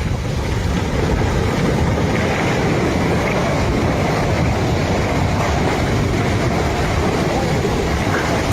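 Avalanche: a loud, steady rushing rumble of moving snow, with no breaks.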